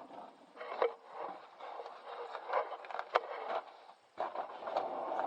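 Irregular scraping and handling noise with several short, sharp knocks or clicks scattered through it, and a brief break just after the middle.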